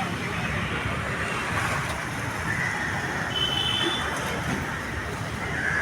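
Steady rumble of vehicle and street noise, with a brief high thin tone about three and a half seconds in.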